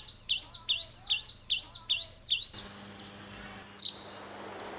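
A small bird chirping over and over, about three short chirps a second, which cuts off abruptly about halfway through. After that there is a faint steady hiss with a low hum, and one more brief chirp.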